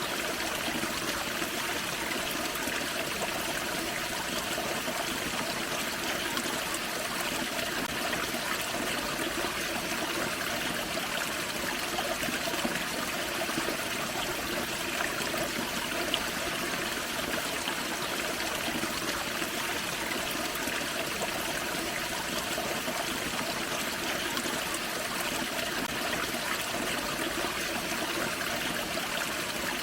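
Small forest creek waterfall: water splashing and trickling over rocks in a steady, even rush.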